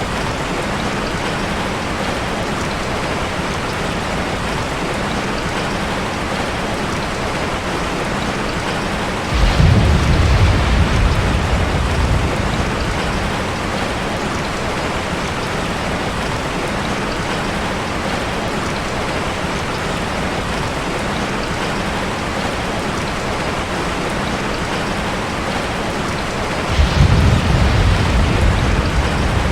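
Steady rain falling, with two short low rumbles of thunder: one about nine seconds in and one near the end.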